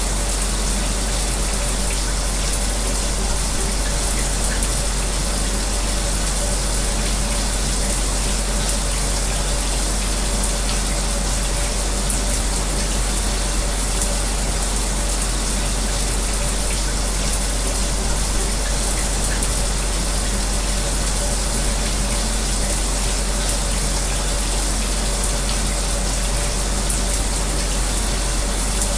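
Shower water spraying steadily, mixed with the even whir of an electric fan. It is an unbroken hiss with a faint low hum underneath.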